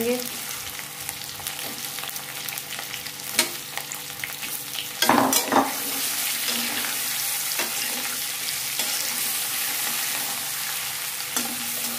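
Whole boiled potatoes sizzling as they shallow-fry in mustard oil in a metal kadhai, with a metal spatula scraping and clicking against the pan as they are turned. Two loud knocks of the spatula come about five seconds in, and the sizzle is louder after them.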